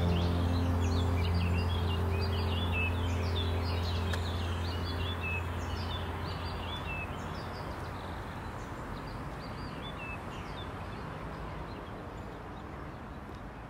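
Small songbirds chirping and singing in quick, overlapping calls, over a low held chord that dies away. The whole sound fades out slowly.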